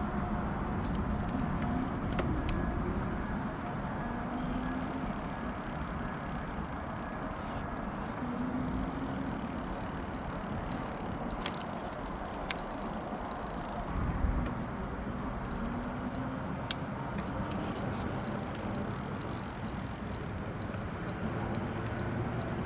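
Electric bike being ridden: steady tyre and wind rumble, with a faint motor whine that rises and falls and a few small clicks.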